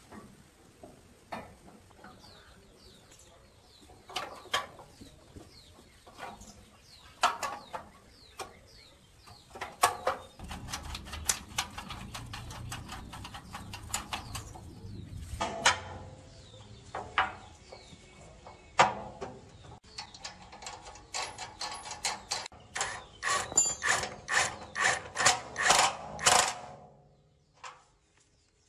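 Hand tools working on the metal parts of an old concrete mixer: scattered sharp clicks and knocks, then a quick run of evenly spaced metallic clicks for about four seconds near the end, which stops suddenly.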